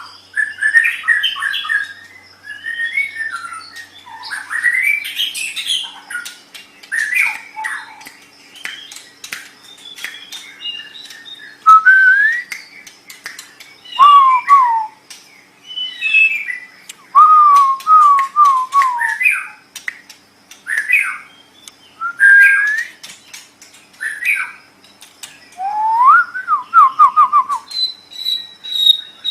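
White-rumped shama (murai batu) singing: a varied run of whistled slurs, fast rattling trills and sharp clicks, phrase after phrase with short pauses between.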